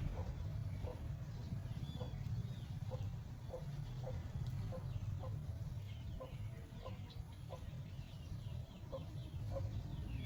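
Chicken clucking in short, evenly spaced clucks, about two a second, over a steady low rumble.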